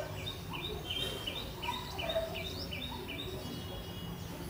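A small bird chirping a rapid, even run of about a dozen short high notes, about four a second, over low background noise.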